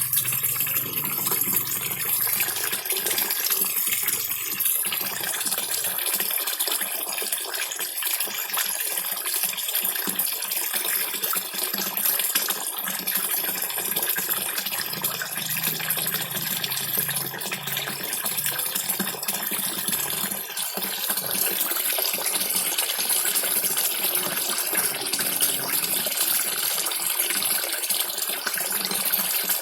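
Small waterfall splashing steadily into a koi pond, with koi feeding at the surface in a crowd, slurping and smacking at the water.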